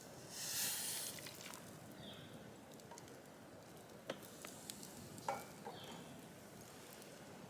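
Faint sizzling of food cooking over a campfire: a louder hiss about half a second in, then a low hiss with a few scattered sharp pops and clicks.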